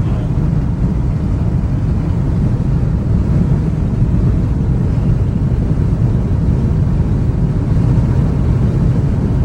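Steady road and engine rumble of a Toyota Tundra pickup driving along a highway, heard from inside the cab.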